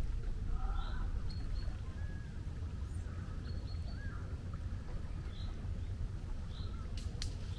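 Seagulls giving short, scattered calls over the steady low rumble of the sea, with a couple of sharp clicks near the end.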